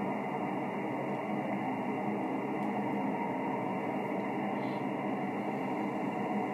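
Steady hiss of band noise from an HF amateur radio receiver tuned to single-sideband on the 20 m band, with no station coming through, confined to a narrow voice-width passband.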